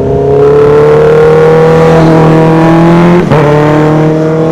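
DJI Avata 2 drone's propellers whining loudly, several motor pitches sliding slowly upward and then shifting abruptly about three seconds in, as the motors work hard to hold the tilted drone against strong wind.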